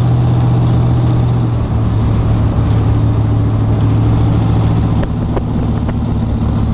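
1929 Ford Tudor sedan hot rod engine running steadily at cruising speed, heard from inside the cabin as a low drone that eases slightly lower in pitch after about four seconds. Two short clicks sound about five seconds in.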